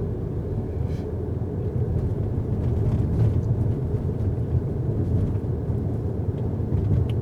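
2019 Mercedes A-Class driving at a steady pace on a snow-covered road: a steady low rumble of tyres on dry snow together with the running engine.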